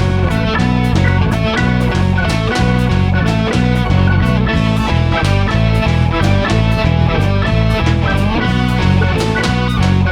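A rock band playing an instrumental passage: guitar over bass and a drum kit keeping a steady beat.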